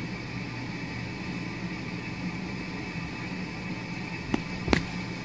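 Steady hum and hiss of room noise, with two short sharp knocks about half a second apart near the end.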